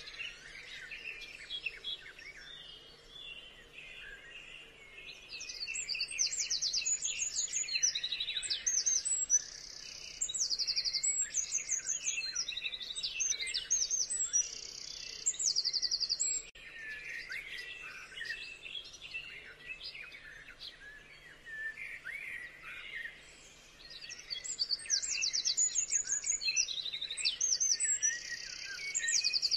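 Birdsong: many birds chirping throughout, with two long bouts of rapid, high, repeated trills, the first starting about five seconds in and the second near the end. A faint steady low hum lies underneath.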